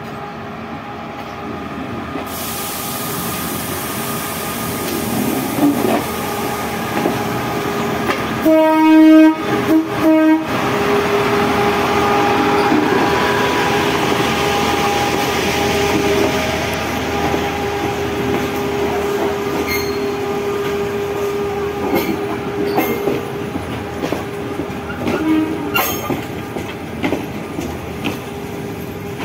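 Indonesian KRDI diesel multiple unit set rolling slowly past close by, its diesel drone steady under the wheel noise. About a third of the way in, a train horn sounds in three short blasts. Later the wheels clack over rail joints a few times.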